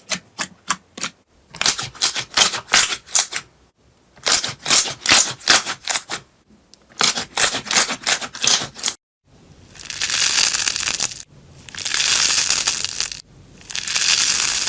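Slime being squeezed and kneaded close to the microphone: clusters of rapid crackling clicks for about nine seconds. After a sudden cut come three longer stretches of dense, squelchy hiss.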